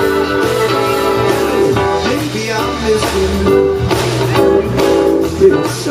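Live blues band playing an instrumental break, a guitar carrying the lead with bent notes over bass and drums.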